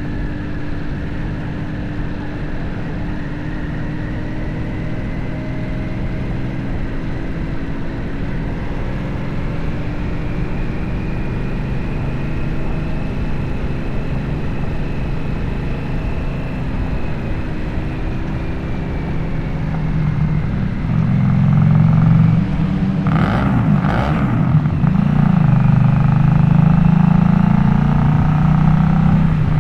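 Harley-Davidson Nightster V-twin with a Jekill & Hyde valve-adjustable exhaust, running while riding, its pitch drifting gently up and down. It gets louder about two-thirds of the way in, with two short, sharp knocks soon after.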